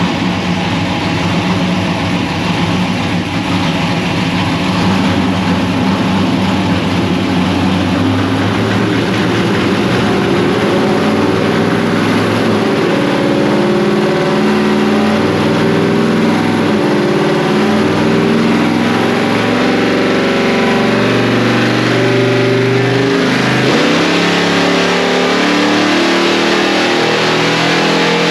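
1961 Ford gasser truck's V8 engine running on a chassis dyno's rollers, the revs climbing in steps, with a brief dip about 23 seconds in.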